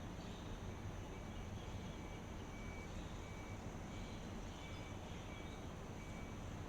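Steady outdoor ambience of low rumble and hiss, with a short high chirp repeating about every 0.7 seconds, starting about a second in.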